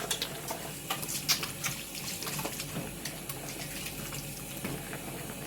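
Kitchen tap running with water splashing as hands are washed under it, to rinse off chilli.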